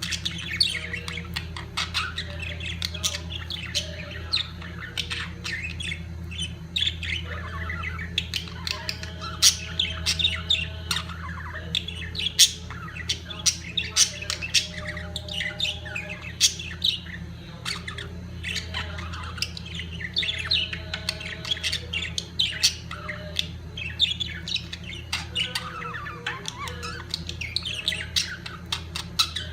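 A group of breeding budgerigars chattering and squawking: many short, sharp calls overlapping without pause, over a steady low hum.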